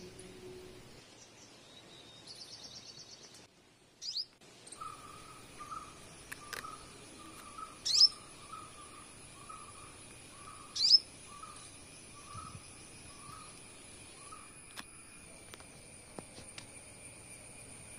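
Birds calling: a run of short repeated notes at about two a second, and two loud, sharp, falling chirps about three seconds apart, which are the loudest sounds. A steady high whine runs underneath, and the sound drops out briefly about four seconds in.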